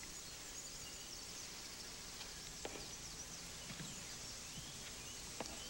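Quiet room ambience with faint, scattered bird chirps and a couple of soft clicks.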